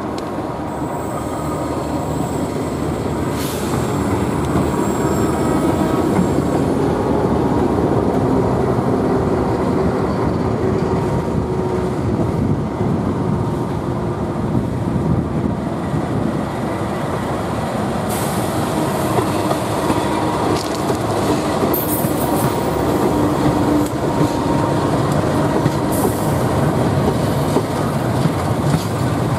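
KAI diesel-electric locomotive hauling a passenger train past on a curve: engine running over the steady rumble of steel wheels on the rails. The wheels clatter and at times squeal on the curve.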